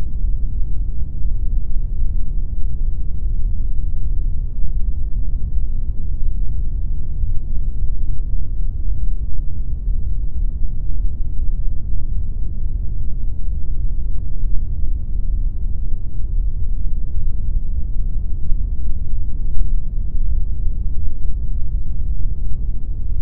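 Steady pink noise: an even, unchanging hiss with most of its weight in the bass and little treble.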